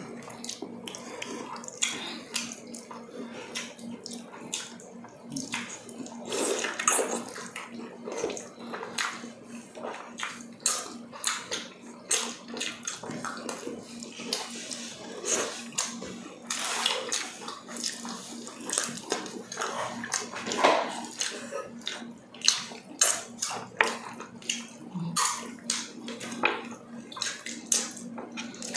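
Close-up wet eating sounds: irregular smacking, squelching and chewing as people eat tender stewed beef skin and feet with their hands.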